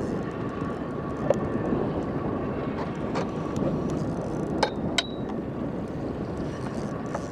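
Boat motor running steadily, mixed with wind noise on the microphone, with a few sharp clicks about a second in and near the middle.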